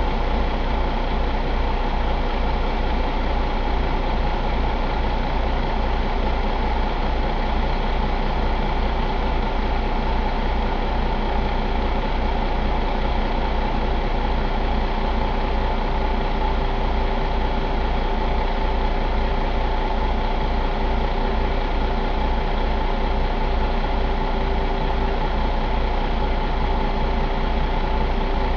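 2021 Cummins X15 15-litre inline-six diesel engine idling steadily, with an even low rhythmic pulse and no change in speed.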